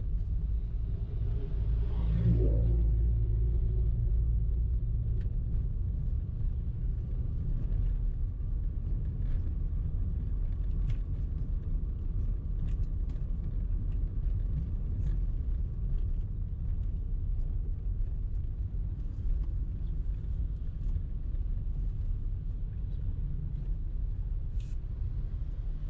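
Steady low rumble of a car driving on the road, with a brief louder swell and a wavering tone about two seconds in, and faint scattered ticks.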